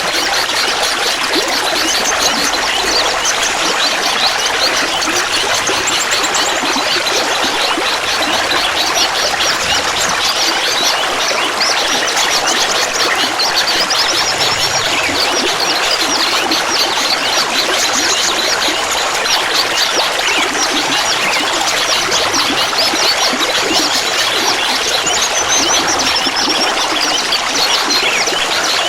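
Clear, shallow running water trickling and babbling steadily, a dense even splashing with no break or change.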